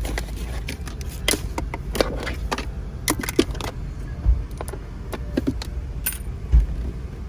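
Irregular clicks, clinks and knocks of small hard objects being handled while trash is cleared out of a car, with two heavier thumps about four and six and a half seconds in.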